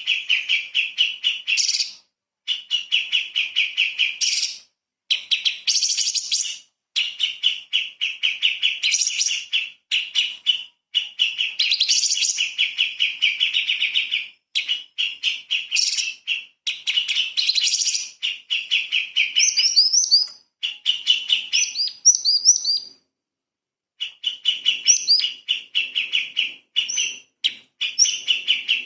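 Cucak cungkok leafbird singing a fast, rattling trill in bouts of a second or two, with short breaks between them. From the middle on it mixes in higher, upward-sweeping notes, then pauses briefly before trilling again.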